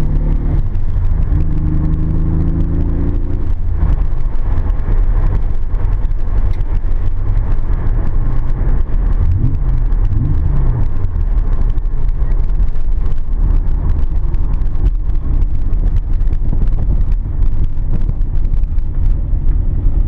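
Nissan 300ZX's twin-turbo 3.0 L V6 (VG30DETT) running under way, its pitch rising and falling a few times about halfway through. The engine is freshly built and being broken in gently on only a couple of pounds of boost.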